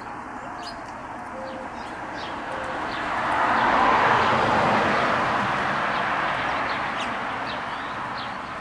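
Small birds chirping here and there over a broad rushing noise that swells to a peak about four seconds in and then slowly fades away.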